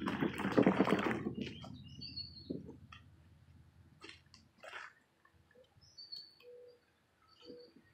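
A rough rustling, scraping noise for about the first second, then a few faint, short chirps from small birds, along with some brief low notes and light clicks.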